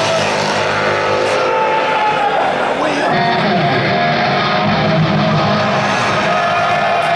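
Heavy metal band playing live and loud, led by electric guitar.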